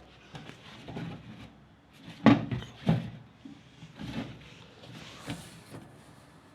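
Irregular knocks and clunks of hard objects being handled. The loudest is a sharp knock a little over two seconds in, another follows about half a second later, and two softer ones come later.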